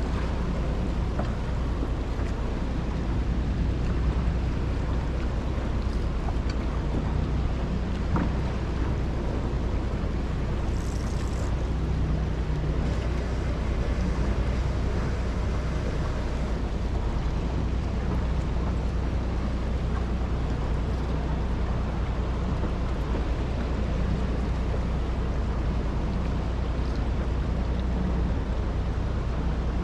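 Steady low rumble and wash of a small fishing boat at sea, with wind on the microphone and the sound of the ocean, unchanging throughout.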